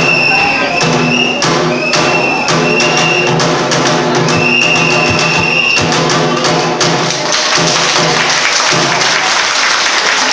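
Kagura accompaniment: drum strokes struck in a regular beat under a high flute holding long notes. About seven seconds in, the flute drops out and a steady hiss fills in over the drumming.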